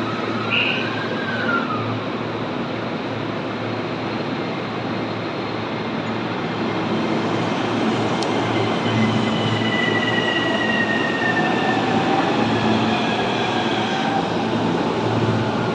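JR East E231 series 1000 electric multiple unit pulling away from a platform. A steady rumble of wheels on rail carries the electric whine of its traction inverter and motors, whose tones shift in pitch as the train gathers speed.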